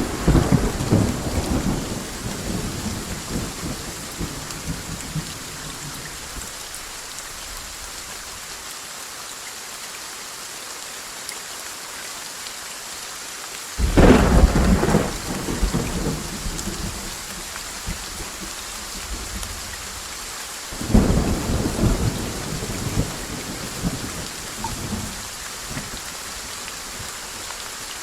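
Steady rain with thunder: a rumble dying away at the start, a sharp thunderclap about halfway through that rolls off over a few seconds, and another rolling peal about three-quarters of the way in.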